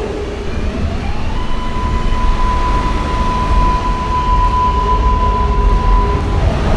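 R143 subway train pulling out of the station. Its AC traction motors whine in rising tones, then settle into one steady high tone over a low rumble of wheels on rail.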